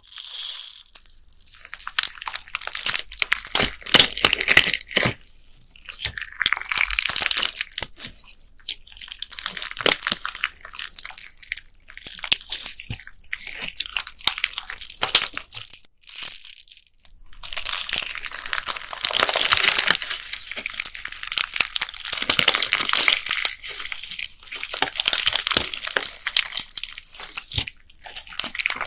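Bead-filled slime being squeezed and pressed by hand, giving dense, fast crackling and clicking as the plastic beads rub and pop inside it. There is a brief pause about sixteen seconds in.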